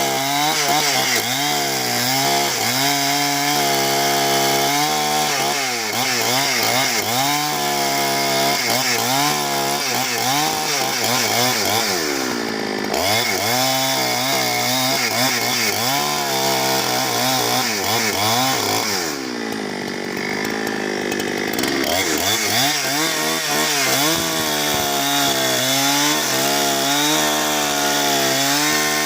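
Two-stroke chainsaw cutting through wood, its engine pitch wavering up and down as the chain bites under load. The revs drop off twice, briefly about halfway through and for a couple of seconds about two-thirds of the way in, then climb back up.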